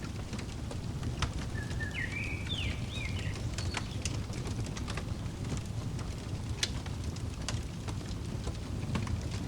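Wood fire crackling, with scattered sharp pops over a steady low rumble. A bird chirps a short zigzagging phrase about two seconds in.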